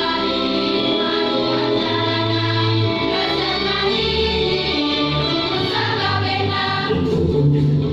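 School choir singing, many voices holding sustained chords over a steady low accompaniment.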